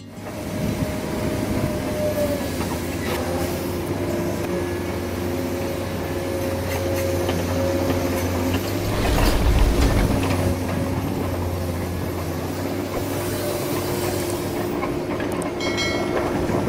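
Small electric motors and gearboxes of radio-controlled model trucks and an excavator whirring steadily, with a louder low rumble about nine seconds in.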